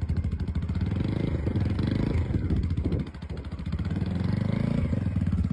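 Small motorcycle engine running, its revs rising and falling; the sound drops off sharply about three seconds in, then picks back up.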